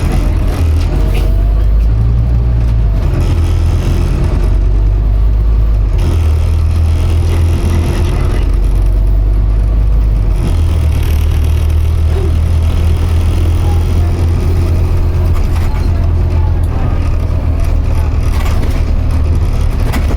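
Scania OmniCity N230UD double-decker bus's diesel engine heard from on board, a deep steady drone under road noise. Its note shifts every few seconds as the load and gears change while the bus drives.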